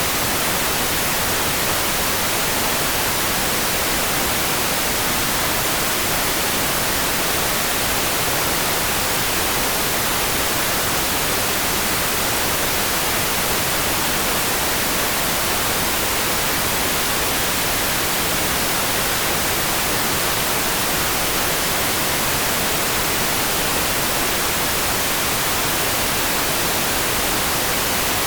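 Steady, unvarying rain-like hiss, even and dense, with no separate drops, drips or thunder standing out.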